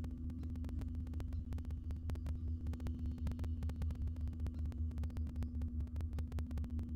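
Steady low electrical hum with a fainter steady tone above it, dense rapid clicking, and a throb that pulses a few times a second.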